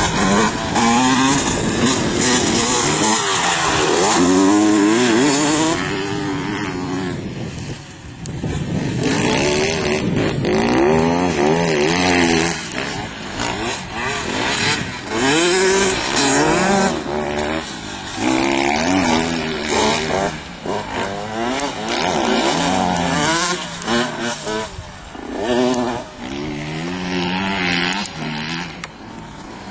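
Motocross dirt bike engines revving hard, the pitch climbing and dropping over and over as the throttle is worked.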